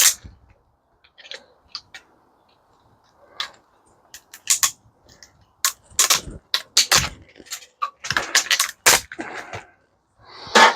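Clicks, clinks and knocks of small scrap parts being handled while circuit boards are stripped of transformers and relays, sparse at first and busier after about four seconds, with a few heavier knocks.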